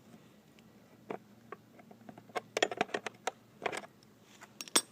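Irregular clicks and knocks of a hand tool working the bolts that hold a dirt bike's plastic bodywork, with a busier run of clatter in the second half and a sharp knock near the end.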